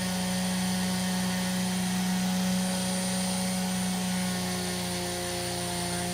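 Foredom flex-shaft rotary tool running steadily with a soft metal brush, cleaning the black grime off a pocketknife blade. It makes a constant high motor whine.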